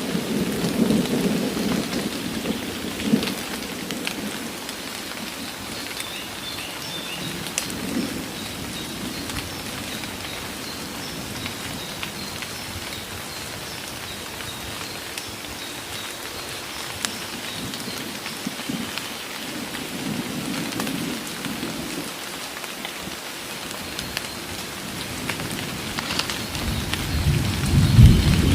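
Heavy rain pouring steadily in a forest. Low thunder rumbles at the start, and a louder roll of thunder builds near the end.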